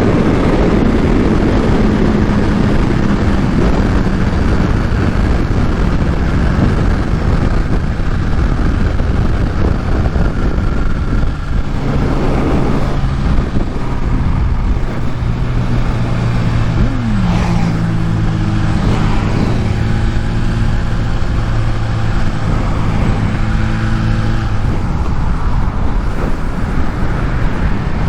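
Supercharged 998 cc inline-four of a 2023 Kawasaki Ninja H2 running at speed under heavy wind rush on the helmet microphone. About two-thirds of the way through, the engine note drops sharply once, then holds steady.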